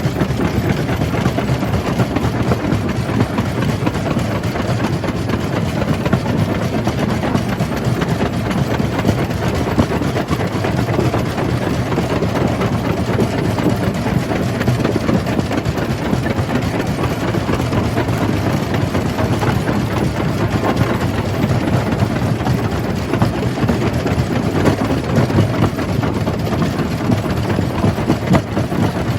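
Jaw crusher running steadily at a quarry, its machinery and the rock being crushed making a continuous low, dense rumble with small irregular peaks.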